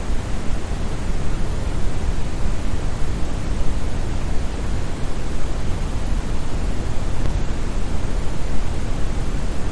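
Steady brown noise: an even, deep hiss-like rush with most of its weight in the bass, unchanging throughout.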